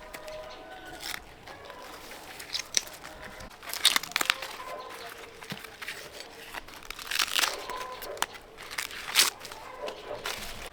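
Plant leaves and stems being torn and snapped by hand during a vegetable harvest: several crisp tearing and crunching bursts, the loudest about four seconds in and again around seven and nine seconds in.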